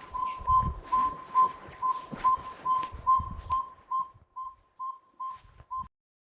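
Northern saw-whet owl advertising call, played as a lure at the banding nets: a long run of evenly spaced single whistled toots, about two and a half a second. It grows fainter in the second half and stops just before the end, over some low handling thumps.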